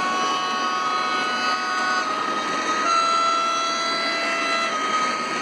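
Model train locomotive's digital sound decoder sounding a two-tone horn: one long chord-like blast for about two seconds, then, after a short gap, a second long blast on a different pitch, over a steady hiss.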